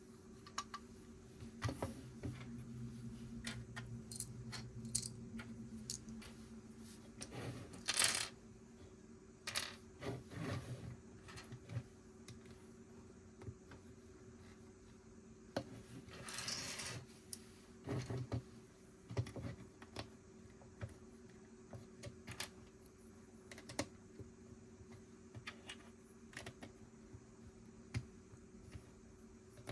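Plastic Lego pieces clicking and clattering as they are handled and pressed together, with scattered sharp clicks, a louder clatter about eight seconds in and a longer rustling clatter around sixteen seconds. A faint steady low hum runs underneath.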